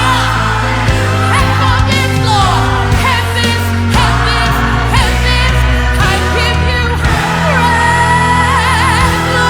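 Live gospel worship music: singers sliding through vocal runs over a steady bass, ending on a long held note with vibrato.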